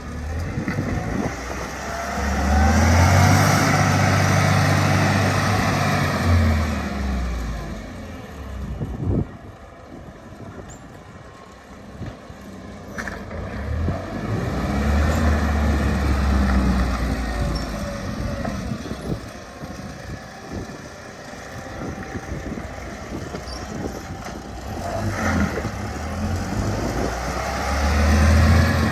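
Toyota 5FG forklift engine running and being revved up and let back down to idle three times, each rev lasting a few seconds.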